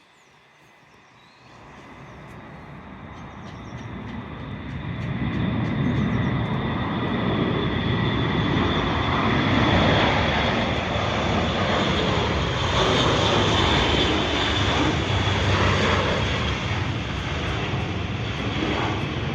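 Airbus A400M's four TP400 turboprop engines droning as it comes in to land. The sound builds over the first few seconds, then stays loud with a steady high whine above the drone.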